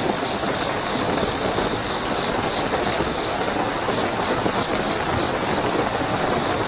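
Steady heavy rainfall, with crickets keeping up a continuous high chirping trill.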